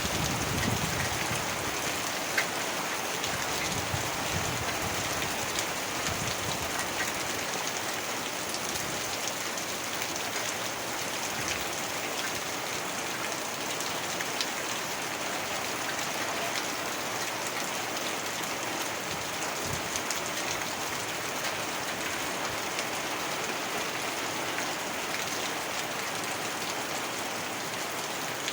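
Heavy rain falling steadily on a surface, a dense even hiss with scattered individual drop ticks. A low rumble sits under the rain in the first few seconds.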